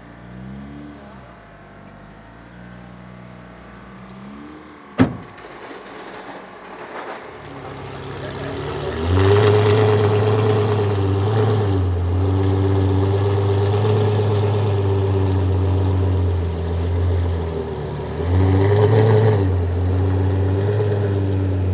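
De Tomaso P72 prototype's 6.3-litre naturally aspirated V12 engine. Short rising and falling revs give way to a single sharp crack about five seconds in. From about nine seconds in the engine runs loud and sustained under throttle, with brief dips in revs near the middle and again near the end before it picks up.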